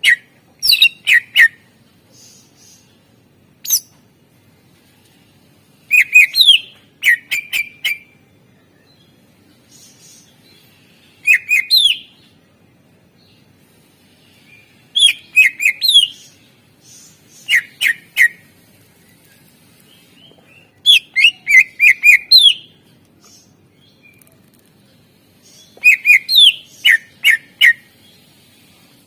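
Greater green leafbird (cucak ijo) singing in about eight short phrases of rapid, sharp chirps and whistles, with pauses of one to several seconds between them. The song is laced with imitations of other birds' calls.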